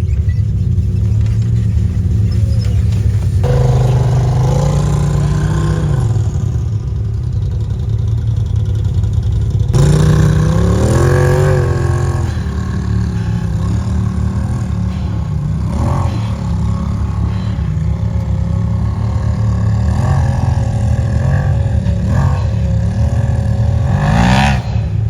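Side-by-side engine running under load on a hill climb: a steady low engine note with the revs rising and falling in several surges, and a few knocks along the way.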